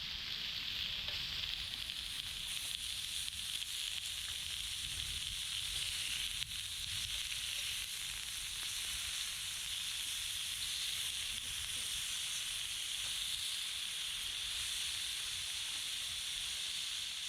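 Meat sizzling steadily on a grill plate over a wood fire, an even frying hiss with small crackles.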